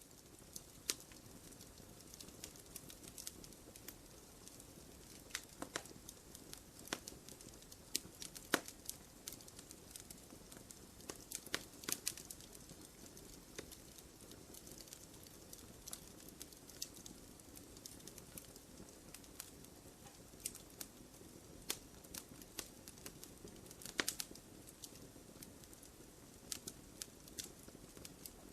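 Wood fire crackling in a fireplace: irregular sharp pops and snaps over a soft steady hiss of the flames, with a few louder snaps scattered through.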